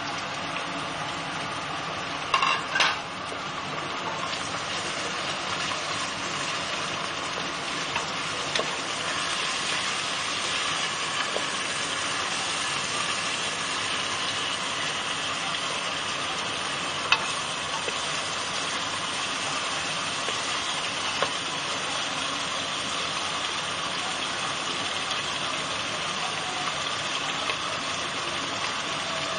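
Sliced chicken sizzling steadily in hot mustard oil with fried onions in a pan, with a short clatter about two and a half seconds in and a few light ticks of stirring later.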